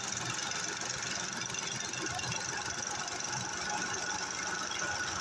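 Diesel engine running steadily at an even speed, with a fast knocking beat.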